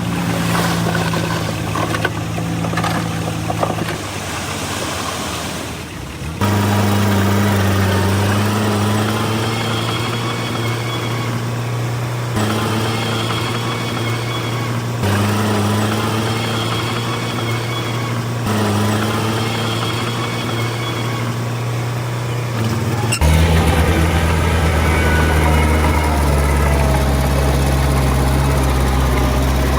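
Diesel engines of heavy earthmoving machines, a small bulldozer and a dump truck, running steadily. The sound changes abruptly several times as short clips follow one another, and the deepest, loudest engine comes in about 23 seconds in.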